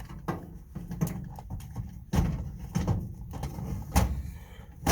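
Irregular knocks and clunks over a low rumbling scrape as something heavy is pushed out of a loaded tool box, with the loudest knocks about two seconds in, about four seconds in and at the very end.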